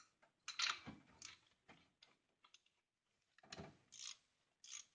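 Scattered faint clicks and clinks of hand tools, a wrench and sockets, being handled and fitted.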